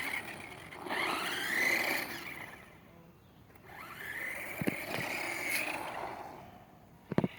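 Small electric motor of a toy truck whining in three bursts, its pitch rising and falling as it drives and backs up, with a few sharp clicks near the end.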